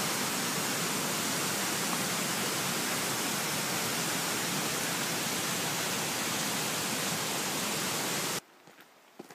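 Steady rushing of a waterfall that cuts off abruptly about eight seconds in, leaving a much quieter background with a couple of faint clicks.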